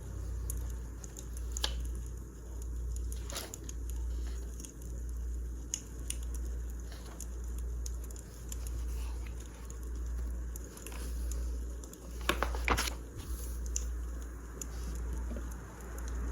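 Wood fire crackling, with scattered sharp pops and a quick cluster of pops about twelve seconds in. Underneath is a low rumble that swells and fades about once a second.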